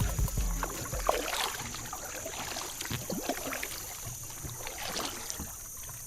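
Kayak being paddled on a creek: irregular paddle splashes and small knocks, with a steady high insect buzz behind. The end of a music track fades out at the start.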